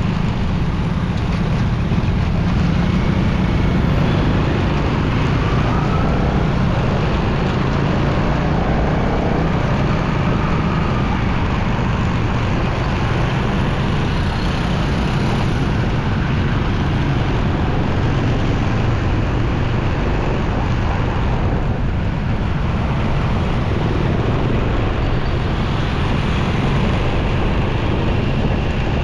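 Steady rumble of a motorcycle being ridden through city traffic: wind and road noise on the rider's microphone mixed with the engine and passing vehicles, unbroken throughout.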